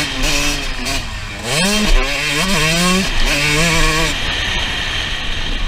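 Two-stroke Suzuki RM 125 dirt bike engine revving under throttle. Its pitch dips about a second in, climbs sharply, rises again in steps, then drops away after about four seconds as the throttle comes off.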